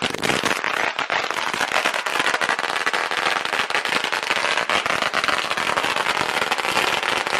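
Firecrackers going off in a rapid, unbroken run of sharp pops.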